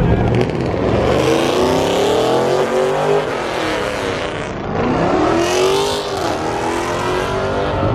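A car engine accelerating hard as the car drives off, climbing in pitch, easing off, then climbing sharply again about five seconds in.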